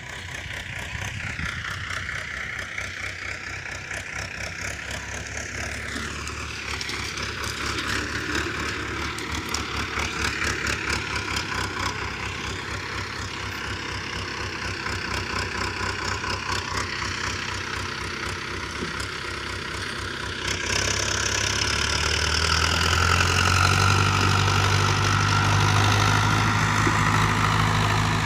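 Preet tractor's diesel engine running with a steady, even firing pulse, getting louder about twenty seconds in as it speeds up.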